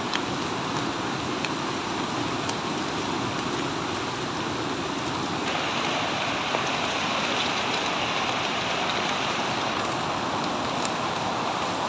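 Heavy rain falling steadily, with scattered sharp drop ticks; it grows a little louder and brighter about five and a half seconds in.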